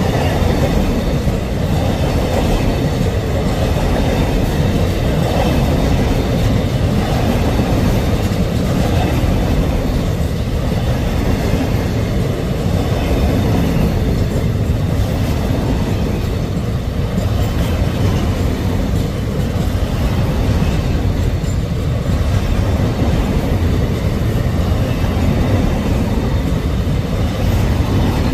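Enclosed car-carrier freight wagons rolling past close by: a loud, steady rumble of steel wheels on the rails.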